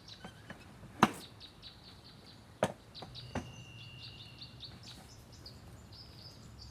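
Outdoor ambience of small birds chirping in short repeated high calls, with three sharp knocks, the loudest about a second in and two more near the middle.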